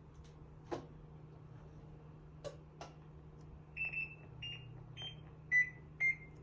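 Buttons on a washing machine's control panel being pressed: a few plastic clicks, then a run of about five short electronic beeps, each at a different pitch, as settings are keyed in after power-on.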